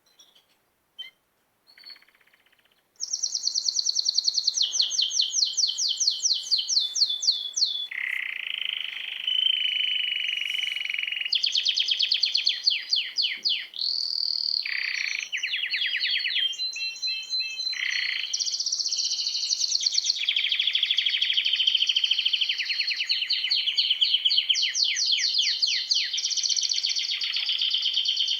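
Many small birds chirping and trilling together in rapid, repeated phrases. The sound starts abruptly about three seconds in, after near silence.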